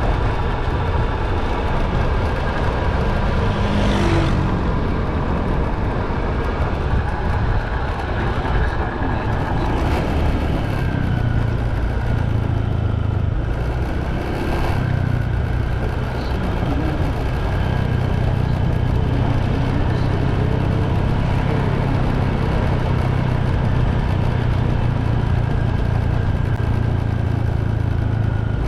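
Motorbike engine running steadily while riding, with a constant low hum under wind and road noise, and a few brief louder swishes.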